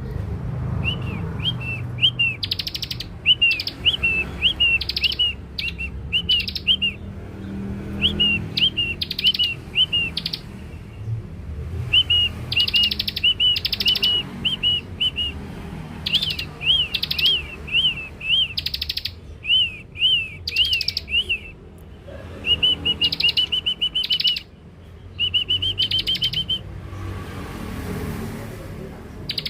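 Young bar-winged prinia (ciblek) calling: runs of quick, high chirps broken by harsh buzzy rasps, repeated in bouts, used as a lure call for catching the bird. A low rumble of background noise sits underneath.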